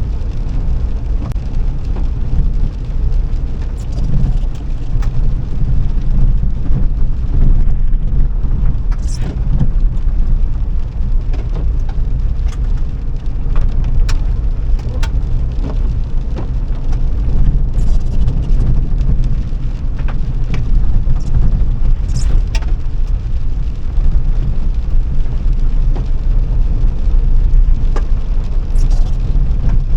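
A car being driven: a loud, steady low rumble of engine and road noise, with scattered light clicks and a few brief higher-pitched hisses.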